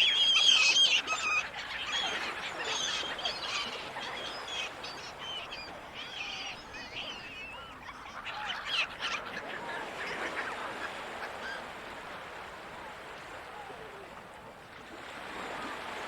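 Seagulls calling again and again, loudest in the first couple of seconds and again around halfway through, over a steady background hiss.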